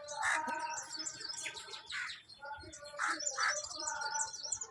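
Small birds chirping and twittering, many short high calls overlapping in quick succession.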